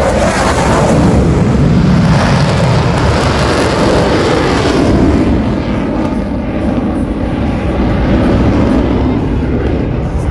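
Military jet aircraft passing overhead: a loud engine roar, strongest over the first five seconds, then easing off as it moves away.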